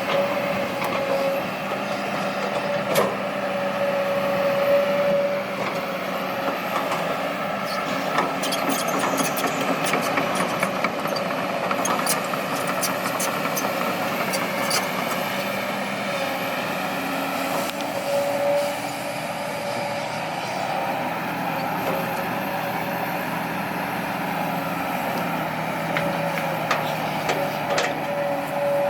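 Kobelco SK200-8 excavator's diesel engine running steadily under work, with a high whine that comes and goes and a run of clicks and knocks in the middle.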